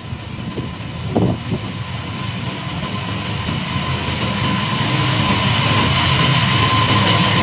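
Freight train hauled by a diesel locomotive approaching through the station, its engine rumble and wheel noise growing steadily louder, with a single knock about a second in.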